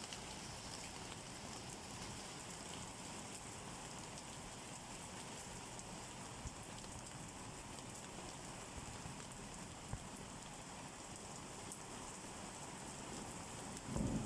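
Steady rain falling on a surface, an even hiss with scattered drop ticks. A brief, louder low rumble comes in near the end.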